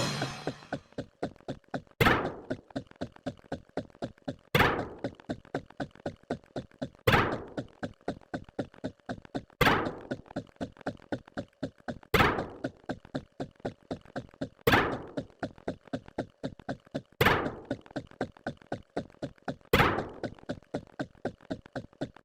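A steady, repeating run of short knocks, about five a second, with a louder thunk that rings briefly every two and a half seconds.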